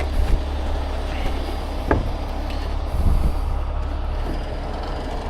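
Heavy wrecker's diesel engine running steadily with a deep rumble, with a short knock about two seconds in.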